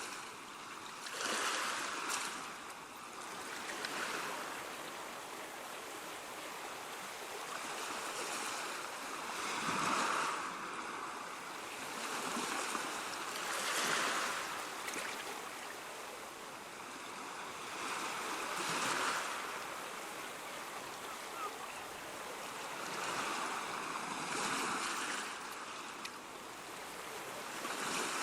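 Ocean waves breaking on a shore in a continuous wash, each wave swelling and receding about every four to five seconds.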